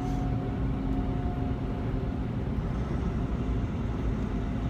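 Steady drone of a tractor-trailer's engine and road noise while driving, heard inside the cab, with a constant low rumble and a steady hum.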